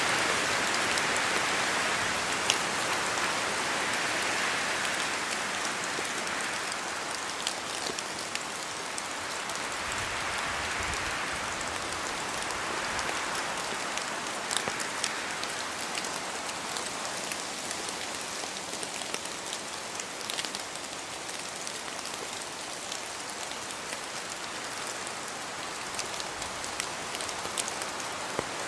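Steady rain falling through forest trees: a continuous hiss with scattered single drops ticking, a little louder at first and easing slightly.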